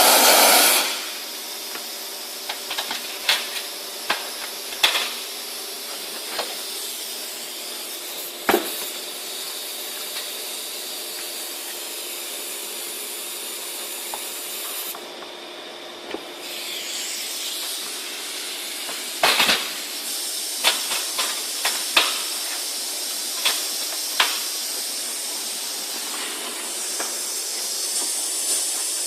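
Compressed-air-driven wet/dry industrial vacuum running with a steady hiss. It is loud at first and drops to a quieter hiss about a second in. Scattered sharp clicks and knocks sound over the hiss.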